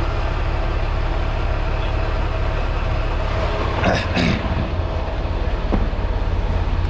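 Semi-truck diesel engine idling steadily with a deep, even hum. A brief rattle about four seconds in.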